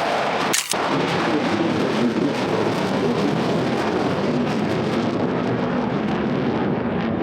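Loud, steady roar of an RAF Typhoon fighter jet's twin jet engines as it flies over, arriving after the jet was first seen; there is a brief break about half a second in.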